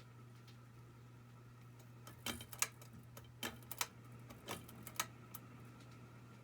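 Monte Carlo Micro ceiling fan's motor humming steadily. About two seconds in comes an irregular run of sharp clicks and ticks lasting about three seconds, then the steady hum alone again.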